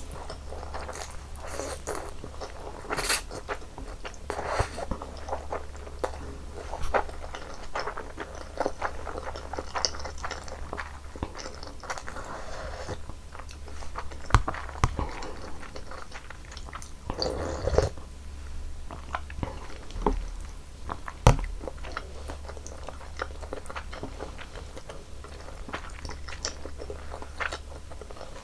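Close-miked eating sounds of a person eating janchi guksu, Korean noodles in hot broth: chewing and mouth noises with sharp clicks scattered throughout.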